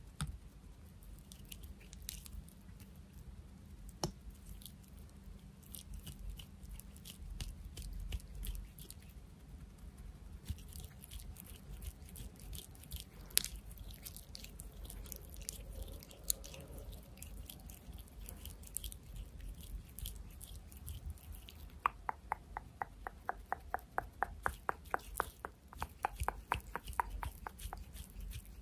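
Close-miked ASMR trigger sounds: scattered soft clicks and crackles, turning near the end into a fast, even run of clicks or taps, about five a second.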